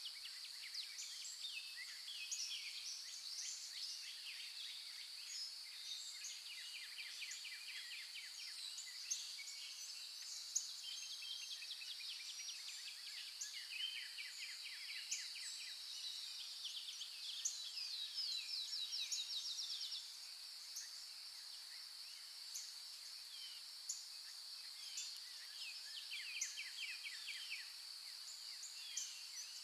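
Wild birds singing, several voices overlapping in chirps and fast rattling trills, over a steady high-pitched hum. The hum eases off about twenty seconds in.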